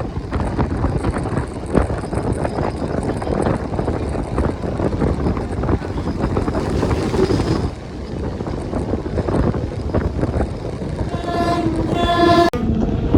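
Train running close by, a dense rattling rumble with wind buffeting the microphone. Near the end a steady pitched tone sounds twice briefly.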